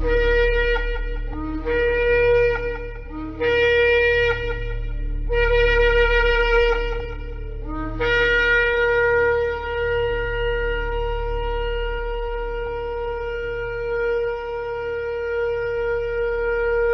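Shofar (ram's-horn trumpet) sounding four short blasts, then one long held blast. Each blast opens on a brief lower note and jumps up to the main note. A steady low hum runs underneath.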